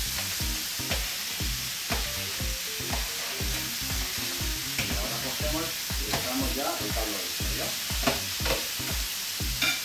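Meat, snails and vegetables sizzling in oil in a paella pan while a metal spatula stirs them, with the knocks of the strokes against the pan; the paprika just added is being kept moving so it doesn't burn. Faint background music underneath.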